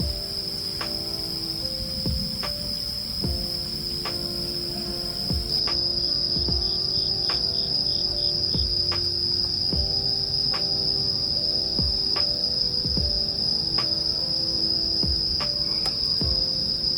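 Insects singing in one continuous high-pitched trill, with soft background music of held notes and a regular light beat beneath it; the whole sound gets louder about five seconds in.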